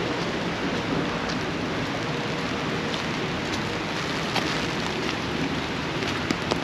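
Steady rain falling on an umbrella held over the microphone, with a few sharper drop taps near the middle and the end.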